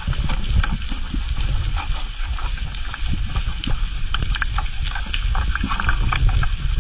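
Underwater ambience picked up by a diving camera: a steady low rumble with dense, irregular crackling clicks.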